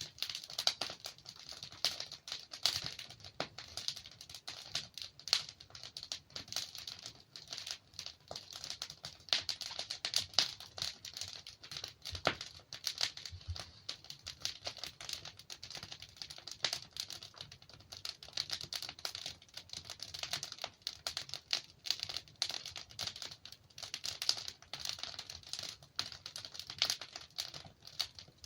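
Burning logs in a fireplace crackling and popping: a dense, irregular stream of small snaps and ticks over a soft hiss, with a few louder pops scattered through.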